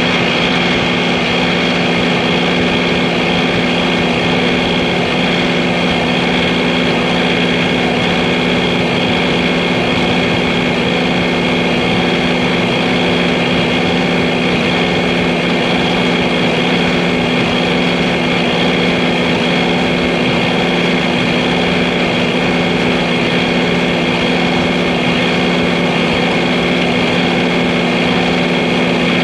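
John Deere 3043D compact tractor's three-cylinder diesel engine running steadily at a constant speed, with a steady whine from the machine over the engine note.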